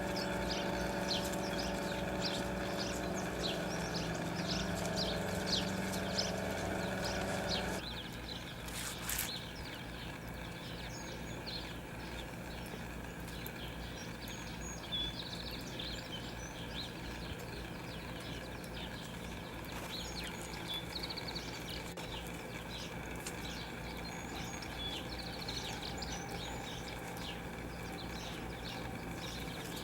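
Small songbirds chirping in quick repeated high notes. For the first eight seconds a steady mechanical hum runs underneath and then cuts off suddenly. After that, scattered chirps continue over faint background noise.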